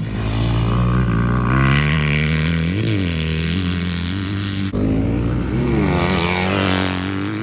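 Dirt bike engines revving on a motocross track, the pitch rising and falling repeatedly with the throttle.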